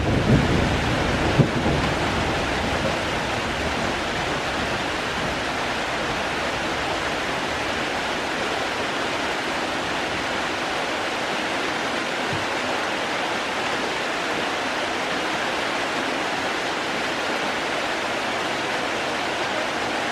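Steady rain falling, an even hiss without let-up. Low rumbling wind buffets the microphone in the first second or two, then fades.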